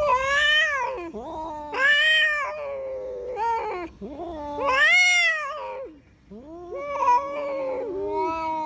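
Male cats caterwauling at each other in a fight standoff: long, drawn-out yowls that rise and fall in pitch, one after another, with a brief break about six seconds in.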